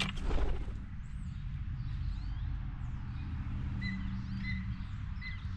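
Birds chirping outdoors: a few short, high chirps and squeaky notes, clustered in the second half, over a steady low rumble.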